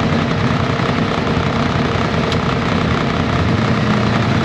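ATV engine running steadily as the quad is ridden along a trail.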